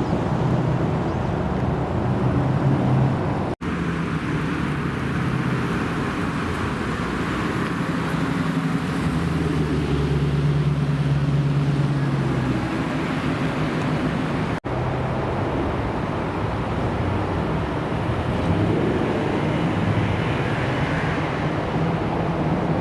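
American cars' engines running at low revs with a steady low hum. The sound cuts off abruptly twice and resumes. Near the end the pitch rises as an engine revs up.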